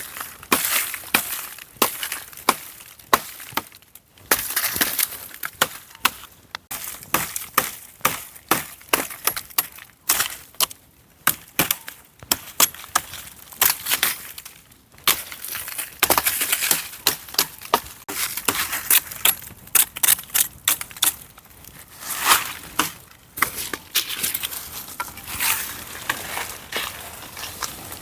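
Dry wood being broken and cut up for firewood: an irregular run of sharp cracks and snaps, often several a second.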